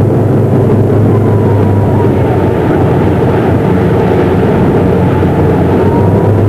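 Motorboat engine running steadily at speed, with rushing wind and water noise.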